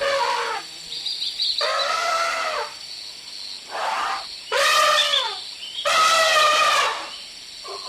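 A series of loud pitched animal calls, about five in all, each up to about a second long, the pitch rising and then falling, with short pauses between; a faint high chirp sounds once about a second in.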